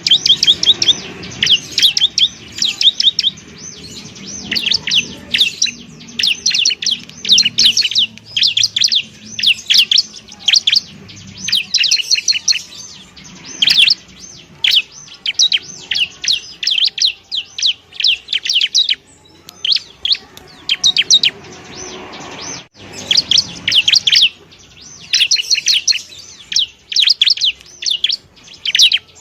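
Bar-winged prinia (ciblek) singing: bursts of very rapid, high chattering notes, phrase after phrase with short pauses between.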